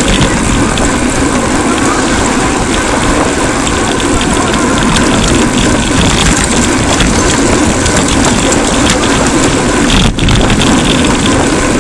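Steady, loud rush of wind and road noise on a cyclist's camera microphone while riding, with a brief dip about ten seconds in.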